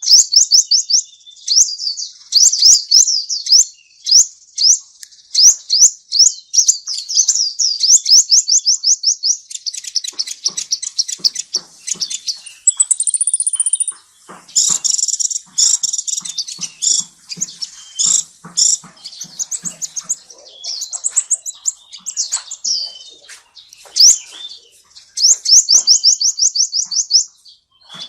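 A small songbird singing loud, fast, high trilled phrases and chirps, one after another with short gaps. Through the middle stretch the song is mixed with small clicks or knocks.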